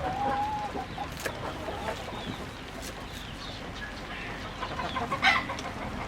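Chickens clucking, with the last of a rooster's crow held for the first moment. A few sharp clicks or knocks sound among the calls.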